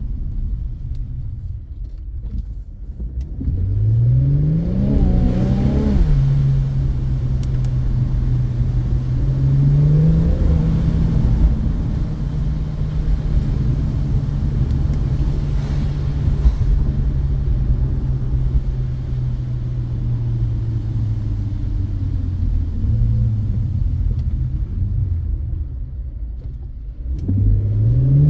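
2018 Infiniti Q50 Red Sport 400's twin-turbo V6 accelerating hard: the engine note climbs through a gear to an upshift about six seconds in, picks up again near ten seconds, then holds a steady note that slowly sinks as the car cruises. It eases off briefly before a fresh pull starts right at the end.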